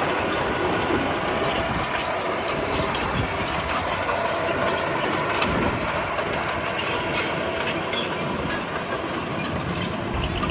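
Komatsu D31P crawler bulldozer working, its steel tracks clanking and squealing over the engine with a steady run of small clicks and knocks.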